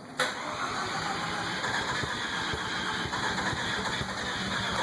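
1990 Mazda RX-7 Turbo II's 13B twin-rotor turbo engine cranking on the starter without catching: a no-start on its Microsquirt standalone engine computer. The starter engages with a click about a quarter second in, and the cranking runs on steadily with an uneven low pulsing and no rise in revs.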